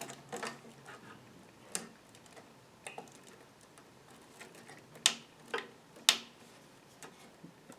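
Scattered sharp clicks and small knocks of computer hardware being handled and fitted into a PC case, the two loudest about five and six seconds in.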